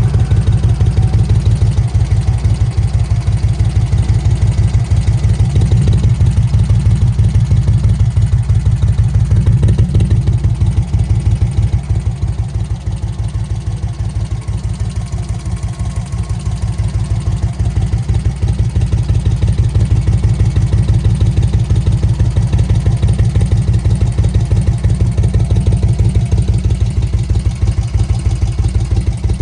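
Magni Sfida 1000's air-cooled Moto Guzzi V-twin engine running at a steady idle, its exhaust pulses even throughout, with the level easing off for a few seconds midway before coming back up.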